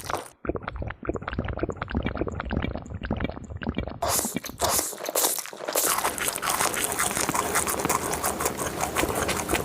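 Close-miked crunchy chewing: someone biting and chewing crisp food in quick, dense crunches, louder and noisier from about halfway through.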